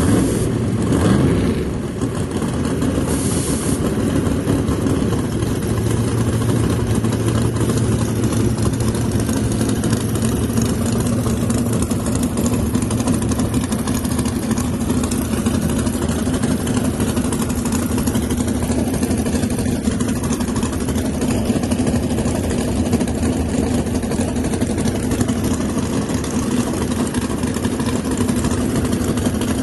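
Race car engines idling at a drag strip, with a short rev that falls away about a second in.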